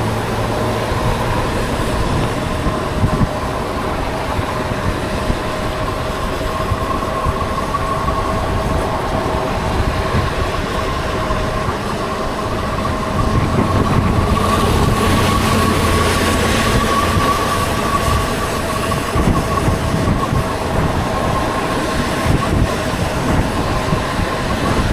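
Steady wind rush and road noise from riding on rain-wet streets, with two steady whining tones over a low rumble. It grows louder for a few seconds around the middle.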